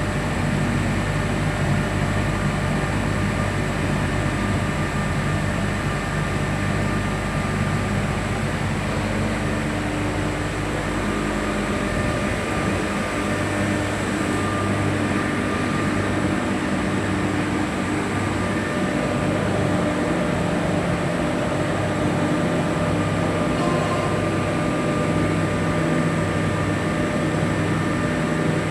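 Locomotive running steadily, heard from the cab: a continuous mechanical drone with several steady humming and whining tones over a noisy rush. The deepest rumble drops away about twelve seconds in while the rest carries on unchanged.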